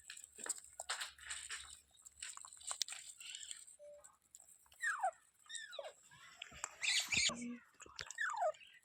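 Green parrot giving three short falling whistled calls among scattered clicks and crunching sounds, with a brief rustling burst about seven seconds in.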